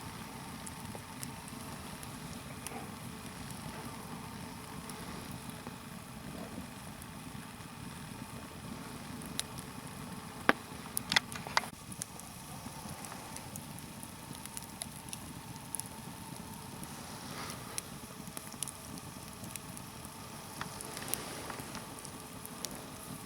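Log fire of damp wood, a nodya of stacked logs, burning with a steady hiss and scattered crackles, and a few sharper pops about ten to twelve seconds in.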